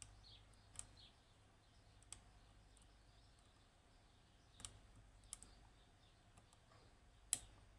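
Faint, scattered clicks of a lock pick and tension tool working the pins of a high pin count Yanai lock, with the sharpest click about seven seconds in as a pin is set.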